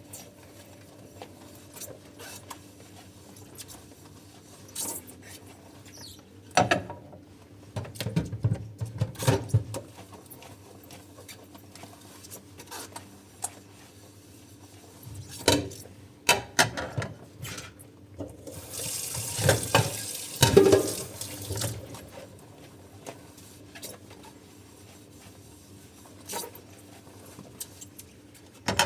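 Dishes being washed by hand in a sink: scattered clinks and knocks of dishes against each other and the sink. The tap runs for a few seconds about two-thirds of the way through.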